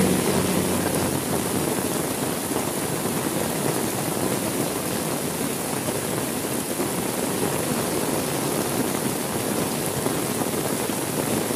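Steady heavy rain falling, a dense even hiss of rain. A low droning hum dies away about a second in.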